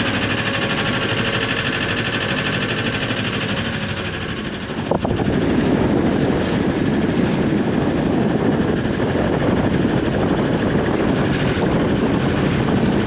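Steady engine-like drone mixed with wind buffeting the microphone. A short knock comes about five seconds in, after which the low rumble grows louder.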